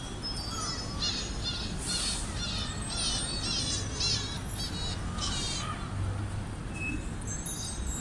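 Bird-like chirping: quick, high, warbling calls repeated many times in a run lasting about four and a half seconds, over steady low city and crowd noise.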